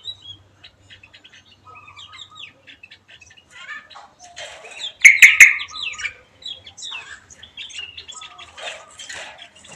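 Small caged songbirds chirping and calling in short, quick notes, with a loud burst of calls about halfway through.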